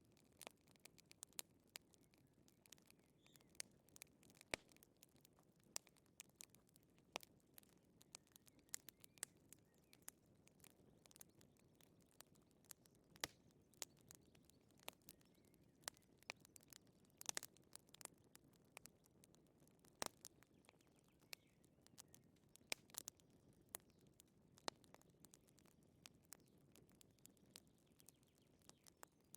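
Wood fire crackling softly in a fireplace: irregular sharp pops and snaps, a few each second, over a faint low hiss of the flames.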